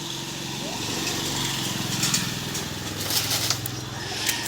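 A small engine running steadily with a low drone. From about halfway in, short scratchy rustles and scrapes come over it.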